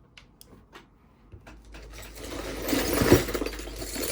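Jewelry and beads being handled: a few light clicks, then about two seconds of dense rattling and rustling, loudest about three seconds in.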